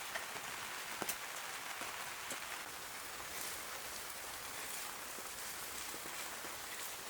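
Steady rain falling, an even hiss with occasional louder single drops tapping close by.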